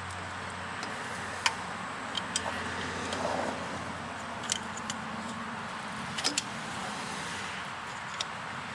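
Scattered sharp metallic clicks and clinks over a steady hiss, from working a stuck fuel injector loose from its bore.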